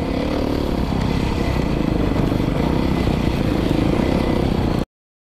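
2019 Beta 500 RRS dirt bike's single-cylinder four-stroke engine, through an FMF exhaust, running hard under throttle over a steady rush of noise. It cuts off suddenly near the end.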